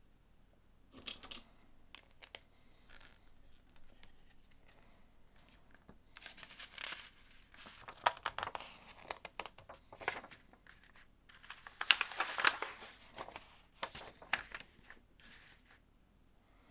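LEGO plastic pieces being handled during building: scattered clicks, then two longer spells of rustling and scraping as parts are rummaged and pressed together.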